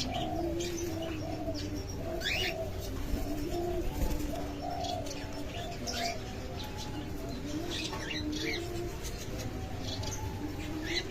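Several doves cooing at once in overlapping low notes, with short high chirps of small birds scattered among them.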